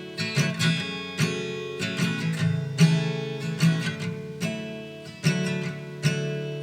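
Acoustic guitar strumming chords at a steady pace, without singing.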